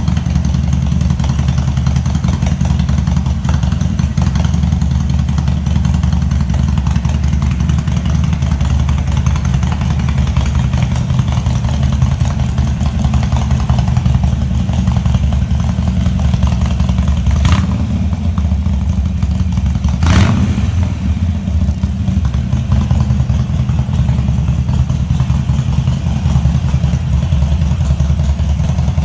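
Harley-Davidson Iron 883's air-cooled V-twin running steadily at idle through aftermarket exhaust tips, a deep low rumble. Two brief sharp sounds cut in about 17 and 20 seconds in.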